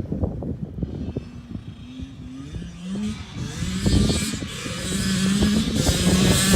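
Yamaha YZ85's 85 cc two-stroke single-cylinder engine revving as the dirt bike is ridden, its pitch rising in steps and growing louder toward the end.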